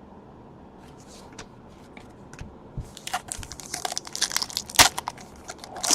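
The wrapper of a trading card pack crinkling and crackling as it is torn open and handled. The first couple of seconds are quiet, then a dense run of crackles begins, with one sharp crack about five seconds in.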